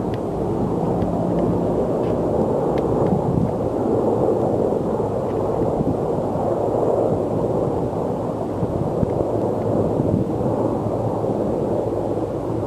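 Steady low rumble of a helicopter in flight, mixed with wind buffeting the microphone.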